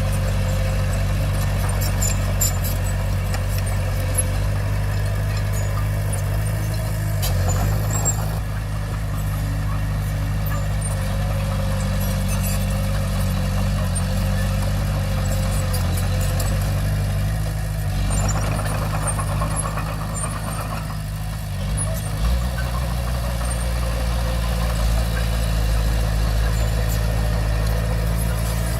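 Small crawler bulldozer's diesel engine running steadily, its note changing several times as the machine works, with scattered light clicks.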